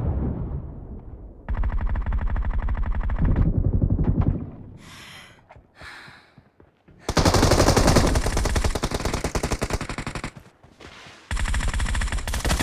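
Video game automatic gunfire: rapid shots in three bursts, the first about a second and a half in lasting two seconds, the second starting about seven seconds in, and a third near the end.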